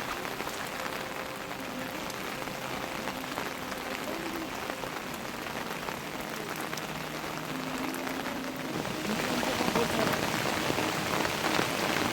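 Heavy monsoon rain falling steadily, growing louder about nine seconds in.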